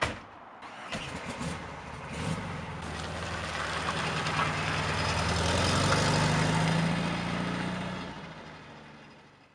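Car engine running, with a short knock at the very start. The engine grows steadily louder and rises a little in pitch about five to six seconds in, then fades away.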